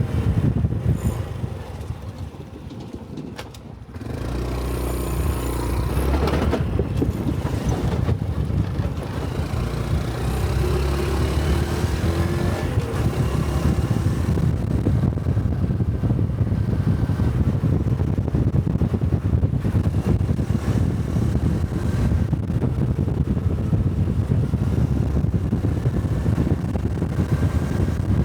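Honda Cub 125 cc single-cylinder motorcycle engine heard from the rider's position, with wind noise. It eases off to a quieter lull, then pulls away about four seconds in, revving up and running steadily at road speed.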